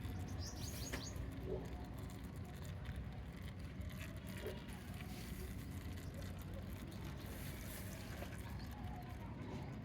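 A few short bird chirps about half a second in, over a steady low outdoor rumble.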